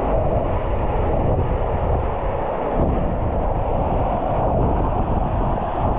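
Steady rush of a waterfall, with wind buffeting the microphone as a low rumble.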